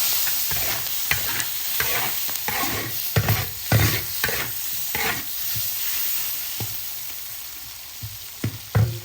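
Food sizzling in a wok while a metal spatula scrapes and knocks against it in irregular stir-frying strokes; the hiss eases off over the last few seconds, and a couple of sharp knocks come near the end.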